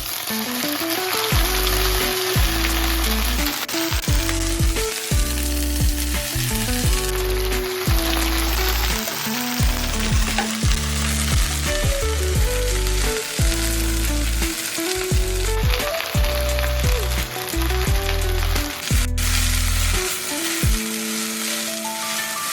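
Food sizzling steadily as it is stir-fried in a hot pan, with background music underneath.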